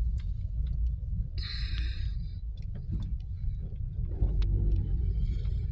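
Low, steady wind rumble buffeting the microphone, with a brief hissing burst about one and a half seconds in.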